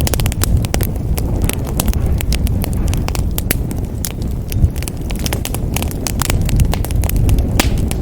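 Wood fire burning in a fireplace: a steady low roar of flames with irregular sharp crackles and pops.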